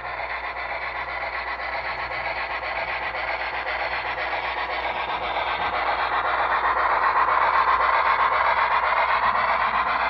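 Model steam locomotive running along the track, a steady mechanical running noise of motor and wheels on rail that grows louder about halfway through as the train comes closer.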